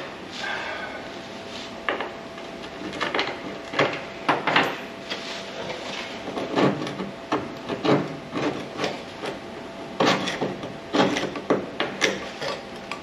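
Irregular scraping and rubbing strokes with a few knocks: a hand tool working over rusty sheet metal in a truck cab.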